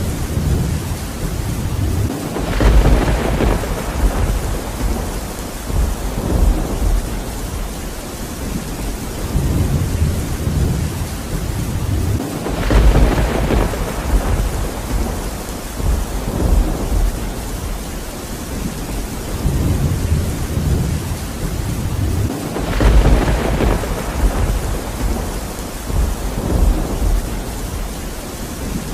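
Steady heavy rain with thunder rumbling three times, about ten seconds apart.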